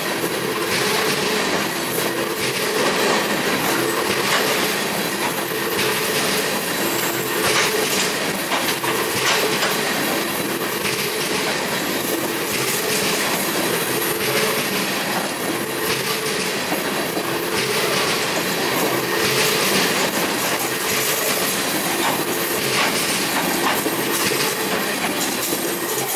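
A long string of steel coal gondolas rolls past at speed: the steady rattle and rumble of steel wheels on rail, with repeated clicking as the trucks pass over the rail. It starts to fade right at the end as the last car goes by.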